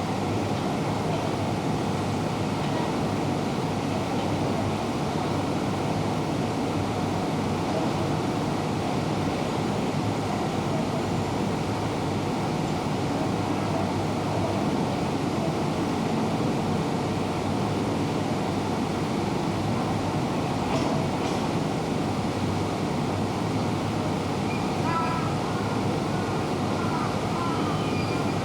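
Steady rumble of electric commuter trains and platform bustle in a busy railway station, with faint voices near the end.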